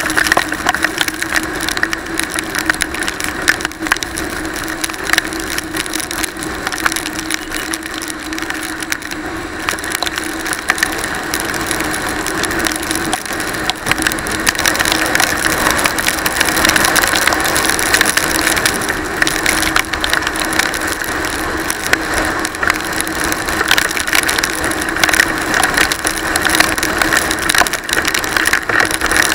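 Motorcycle riding through heavy rain: dense crackling of rain and wind on the camera microphone, with a steady engine tone underneath.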